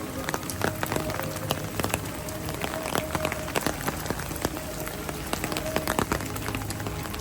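Heavy rain falling, a steady hiss with many sharp drops ticking close to the microphone, several a second.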